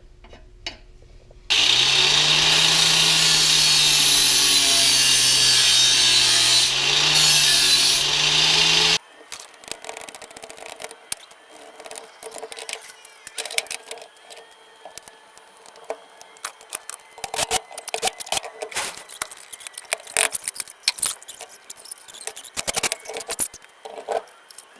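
A handheld power tool runs loudly for about seven seconds, starting and stopping abruptly, with a wavering motor hum under it. It is followed by scattered clicks and knocks of tools and metal parts being handled.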